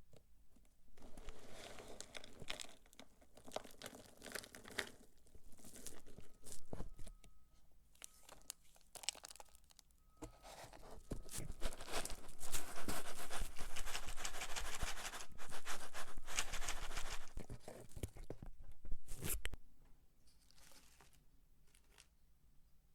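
Dry soap shavings crumbled and crunched by hand, a dense crackle in several stretches that is loudest in the second half.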